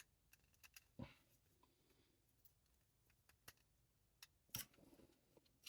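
Faint, scattered clicks and light taps of pliers working a small metal hinge as it is bent, about half a dozen over several seconds with near silence between.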